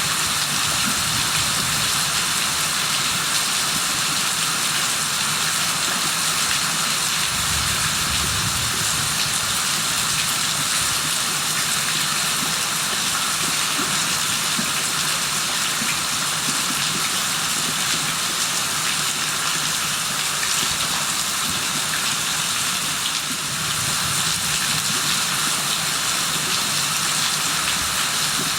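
Steady heavy rain falling, an even, dense hiss. A brief low rumble comes through about eight seconds in.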